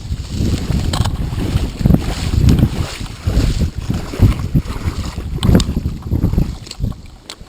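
Wind buffeting the microphone: an uneven, gusty low rumble that swells and drops, with a few sharp clicks.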